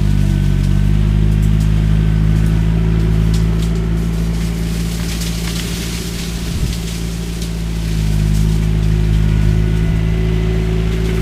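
Skid steer engine running hard while the shredder head works through cane, with scattered sharp cracks and ticks over the steady engine drone. The engine eases a little past the middle, then picks up again.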